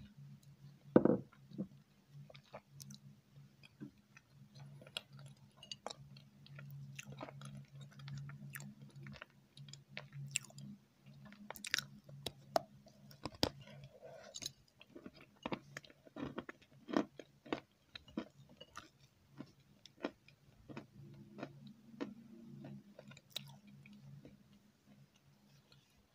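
Close-miked eating sounds: a person chewing a soft dessert, with many small wet mouth clicks and smacks, over a faint steady low hum. A single louder knock comes about a second in.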